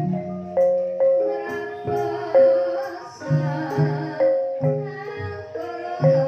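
A Banyumasan gamelan ensemble playing a gending in ebeg style: a run of struck, ringing keyed notes over regular low drum beats.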